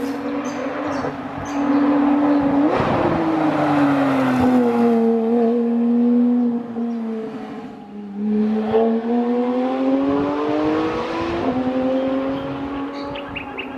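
Porsche sports car engine driven hard on a rally stage. Its note slides down over several seconds as the car slows through a bend, then climbs again from about eight seconds in as it accelerates away.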